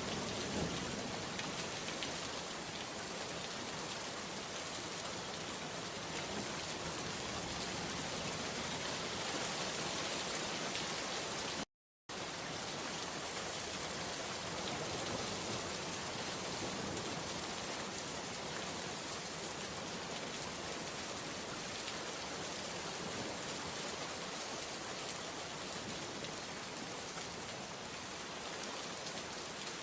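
Steady rainfall, an even wash of falling drops, with a split-second cut to silence about twelve seconds in.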